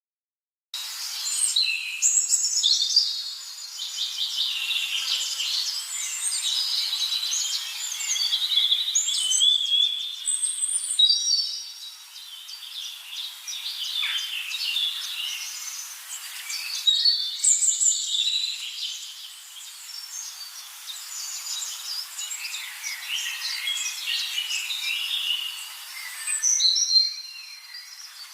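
Many small birds singing and chirping over one another in a dense, high twittering chorus, starting abruptly just under a second in.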